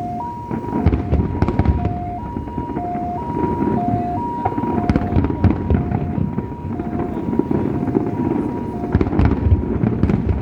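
Fireworks going off, with scattered sharp bangs and crackles, the densest cluster near the end. Throughout, an electronic two-tone high-low signal alternates about every half second.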